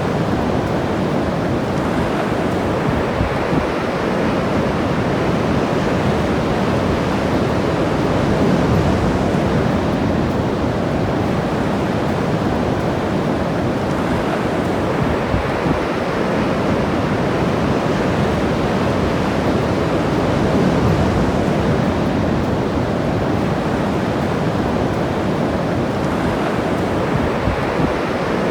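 Ocean surf on a beach: a steady rush of breaking and washing waves that swells a little about eight seconds in and again about twenty seconds in.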